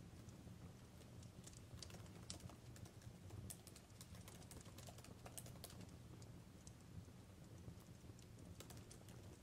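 Faint fireplace crackling: irregular sharp snaps and pops, a few a second, over a low steady rumble.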